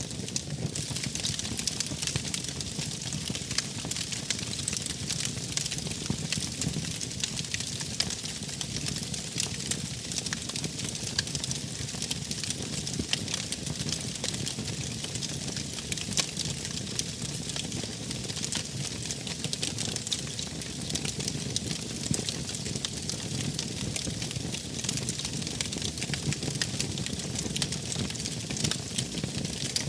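Wood fire burning in a fireplace, crackling steadily with many small pops over a low rush of flame.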